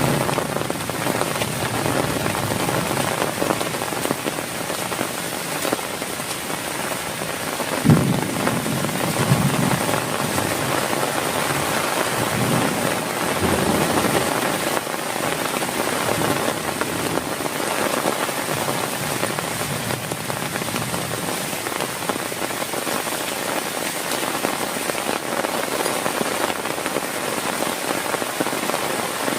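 Heavy rain falling steadily, a dense even patter, with a single sharp thump about eight seconds in and a few low rumbling swells just after.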